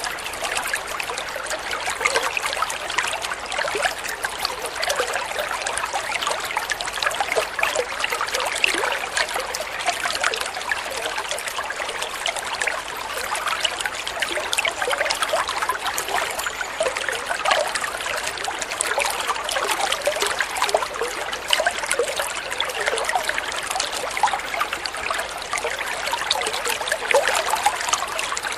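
Shallow water flowing and trickling steadily, with a continuous fine splashing and bubbling.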